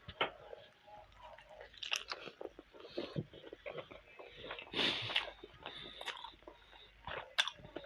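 A person chewing a mouthful of two chicken and buffalo momo dumplings: irregular chewing and biting noises, with a louder burst about five seconds in.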